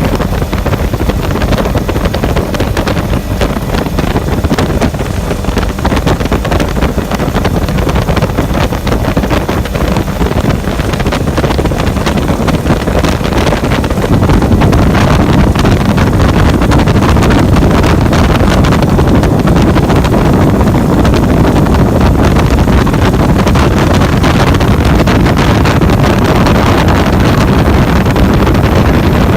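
Motorboat engine running steadily under heavy wind buffeting the microphone, growing louder about halfway through.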